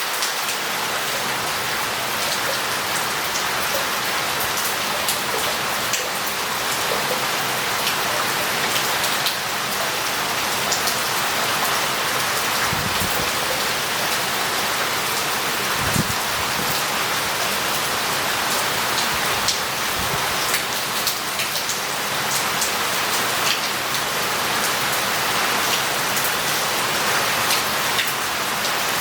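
Heavy rain pouring steadily on a street and roof tiles, a dense even hiss with scattered sharp drip ticks and a few short, dull low thuds.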